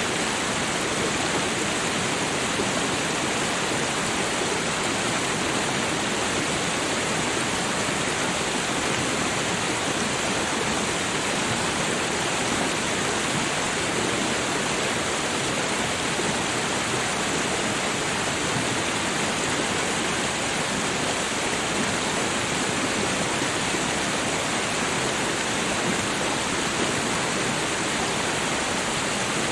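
Creek water babbling, a steady, unbroken rush of flowing water.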